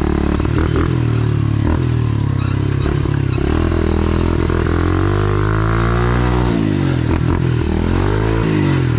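A 125cc pit bike's single-cylinder four-stroke engine running under throttle while riding, its pitch rising and falling as the rider opens and closes the throttle, with some clatter and a few knocks from the bike.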